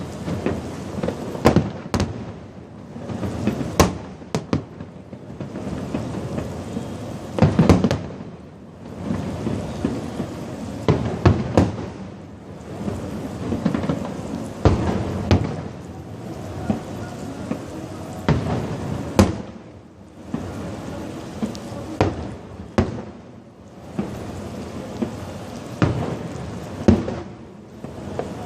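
Fireworks display: a continuous barrage of sharp bangs, several close together, with a rolling rumble between them. The biggest bangs come about a quarter of the way in and again around the middle.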